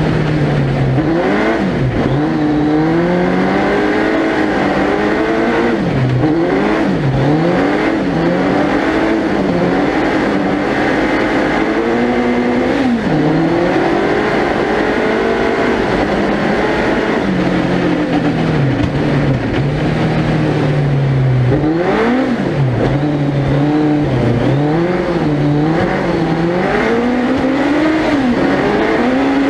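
Suzuki Hayabusa 1300cc motorcycle engine in a four-wheel-drive ice-racing prototype, revving hard and rising and falling over and over as it climbs through the gears and lifts off for corners, with short sharp drops in pitch at each gear change.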